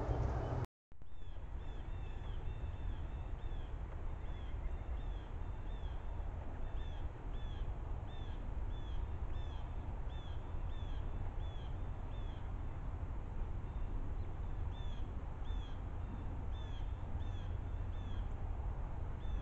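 A small bird calling over and over in short, high, down-slurred notes, about two a second, over a steady low rumble.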